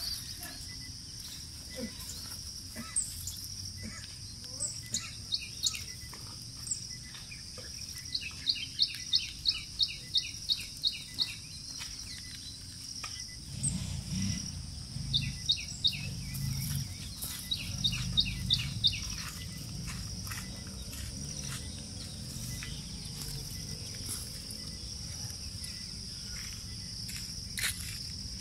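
A bird calling in two runs of quick, repeated chirps, about three a second, over a steady high insect drone. A low rumble rises under it for a few seconds in the middle.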